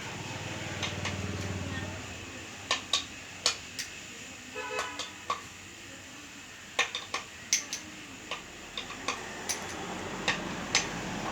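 Irregular sharp metal clicks and clinks of a wrench and bolts, from tightening bolts on a single-cylinder diesel mini-tiller engine during reassembly.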